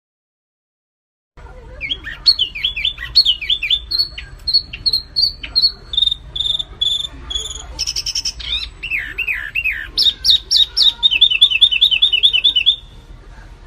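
Songbird singing a fast, varied song: quick falling chirps, short clear whistles on one pitch, high sharp notes, and a rapid trill near the end. It starts abruptly after a moment of silence.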